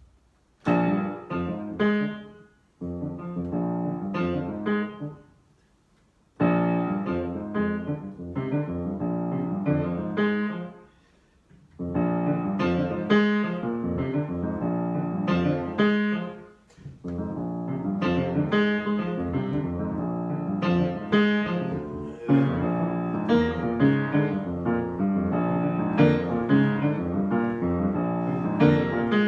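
Solo piano improvisation, played in phrases of notes and chords with short pauses between them, then running on without a break from about 17 seconds in.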